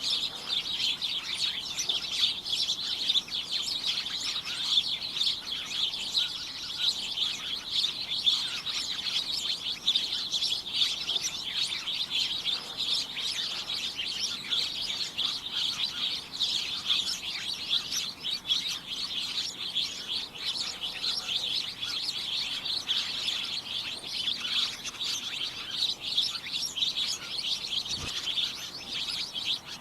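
A flock of small birds chirping continuously, many short overlapping high-pitched chirps at once.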